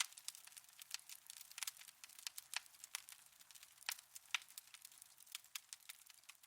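Wood fire in a fireplace crackling, with irregular sharp pops and snaps several times a second over a faint hiss.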